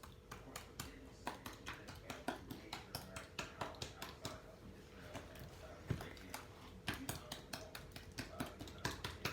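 Slime being squeezed and kneaded by hand, giving irregular sharp clicks and pops a few times a second, over a faint steady hum.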